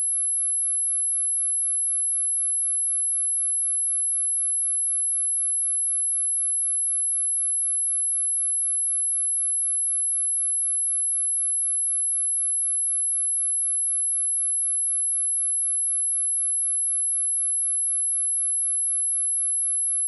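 A steady, unbroken, very high-pitched pure sine tone at 11024 Hz: an electronic test tone used to check speakers and headphones.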